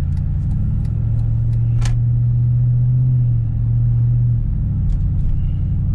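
Exhaust drone from a Jeep SRT8's V8 through a Gibson cat-back exhaust, heard inside the cabin while driving: a steady low hum that swells about a second in and eases off after about four and a half seconds. This in-cabin drone is the known complaint about this cat-back.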